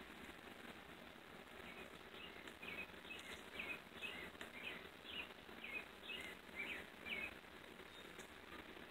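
Faint bird chirps repeated about twice a second, starting a couple of seconds in and stopping near the end, over low steady background noise.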